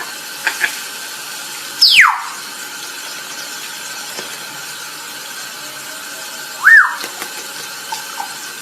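A parrot squeals twice. The first squeal is loud and falls steeply in pitch, about two seconds in; the second, near the end, is shorter and rises then falls. Both come over a steady hiss of running water.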